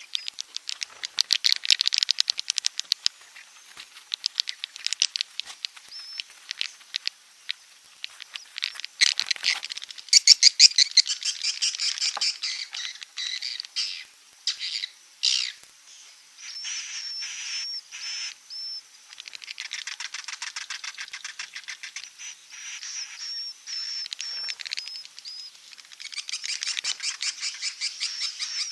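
Edible-nest swiftlet calls: fast clicking chatter and buzzy, high twittering in bursts with short pauses, a swiftlet-house 'inap' lure recording meant to draw the birds in to roost.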